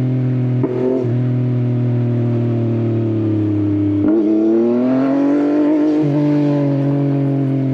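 Yamaha XSR900's inline-three engine, breathing through an Akrapovič exhaust, running under way. About four seconds in the pitch dips briefly, then rises for about two seconds as it accelerates before levelling off.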